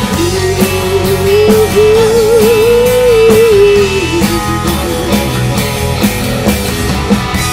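Rock band playing an instrumental passage with drums and guitars; a lead note is held and bent upward with a wavering vibrato for about four seconds, then drops back into the full band.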